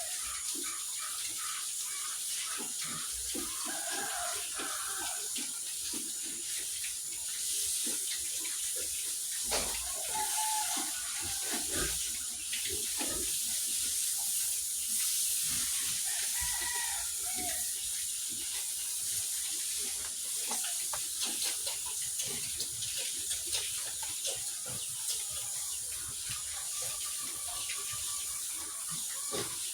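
Water running with a steady hiss, with scattered knocks and a few short animal calls.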